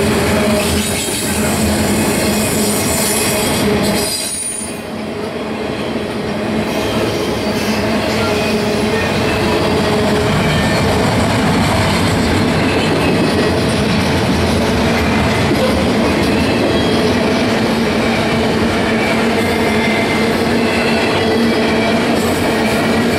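Double-stack intermodal well cars of a freight train rolling steadily past, the wheels' rolling noise mixed with steady squealing tones. The sound dips briefly about four seconds in, then returns.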